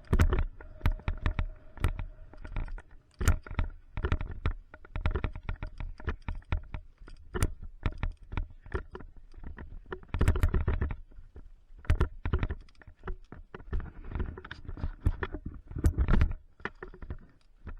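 Mountain bike descending a rough trail: rapid irregular rattling and knocking from the bike and gear jolting over rocks and roots, with a low rumble on the microphone.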